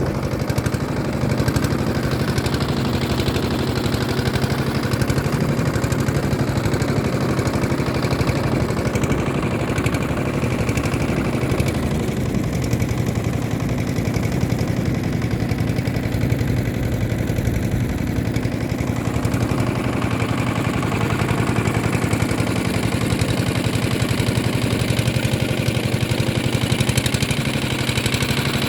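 A boat's engine running steadily at an even speed, with a fast regular pulsing.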